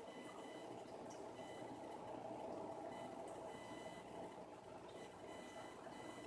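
Faint steady running of aquarium equipment on a 90-gallon tank: a low hum and an even water-like rush, with a thin high whine that comes and goes.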